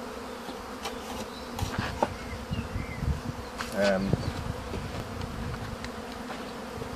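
A honeybee swarm leaving the hive, a mass of bees flying and buzzing in a steady hum. A louder buzz swells briefly about four seconds in.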